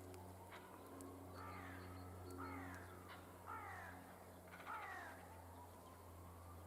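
A crow cawing four times, each call short and falling in pitch, about a second apart. A low steady hum sits underneath.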